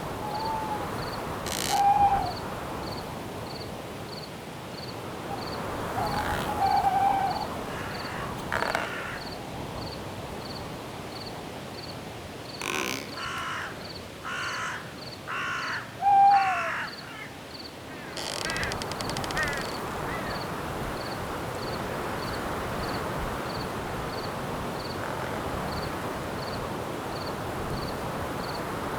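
Night forest ambience: crickets chirping in a steady, even pulse over a wind-like hiss. A few short falling owl hoots come about 2, 7 and 16 seconds in. Midway, a bird gives four harsh caws in quick succession.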